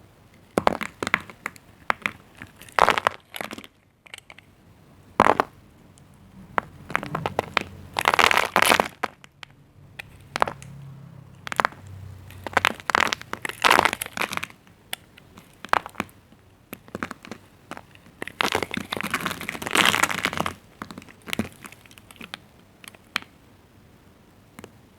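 A knife cutting through dried bar soap into cubes: crisp cracks and crunches in irregular bursts, with a few longer stretches of crunching.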